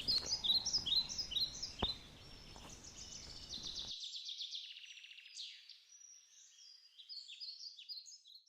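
Wild birds chirping and trilling, many short repeated calls overlapping, with a sharp tick about two seconds in. The low background noise drops away about four seconds in, leaving only the birdsong, which fades out at the end.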